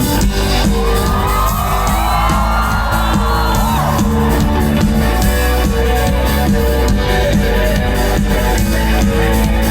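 Live band playing a song's intro over a steady bass pulse and a repeating instrumental riff, with the audience cheering and whooping from about a second in until about four seconds in.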